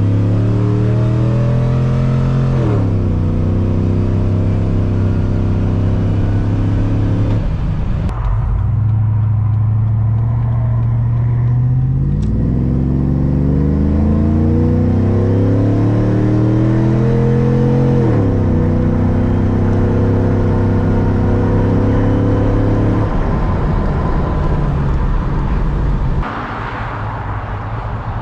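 2003 Chevrolet Silverado 2500's 6.0-litre V8 through long-tube headers and a catless stainless true dual exhaust, pulling hard. The engine note climbs, drops suddenly at an upshift about three seconds in, holds steady, then falls away near eight seconds. A second pull climbs from about twelve seconds and shifts near eighteen, and the sound gets quieter near the end.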